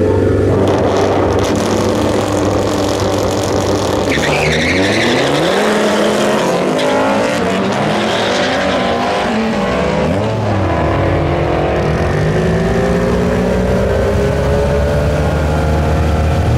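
High-powered car engine under hard acceleration. The pitch dips and climbs again twice, about four seconds in and about ten seconds in.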